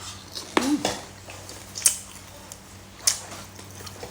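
Two sharp, crisp cracks about a second apart: fried onion chips being bitten. A short voiced sound comes just before them.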